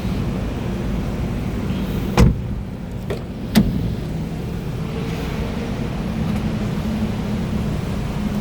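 Nissan Qashqai 1.2's engine running steadily at idle. Two sharp thumps come about a second and a half apart, a couple of seconds in.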